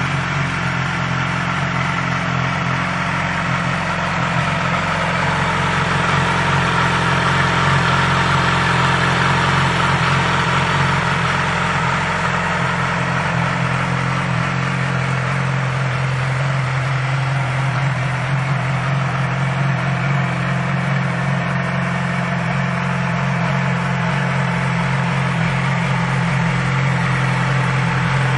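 2009 Yamaha R6's inline four-cylinder engine idling steadily.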